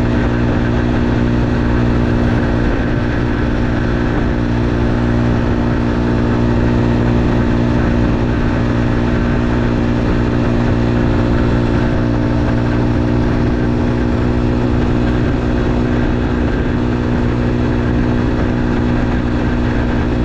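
Motorcycle engine running at a steady, unchanging speed, with a constant hum.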